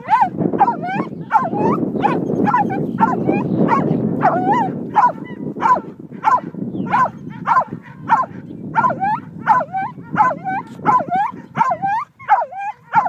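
A dog giving short, high yips and whining barks over and over, about two to three a second, with a low rushing noise beneath that fades after about six seconds.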